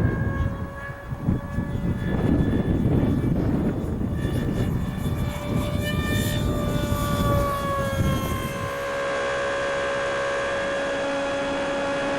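Electric ducted-fan motor of a Dynam Hawk Sky RC model jet whining in flight, its pitch sliding up and down about six seconds in, with gusty wind buffeting the microphone. After about eight seconds the wind noise drops and the whine holds a steady pitch.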